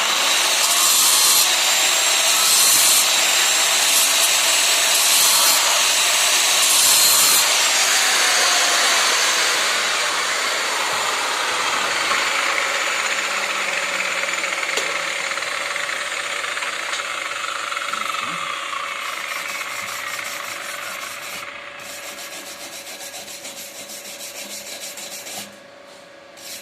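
Angle grinder working along a stick-weld bead to clean off slag after a pass. It runs as one continuous grinding noise that starts abruptly, eases off gradually and cuts out near the end.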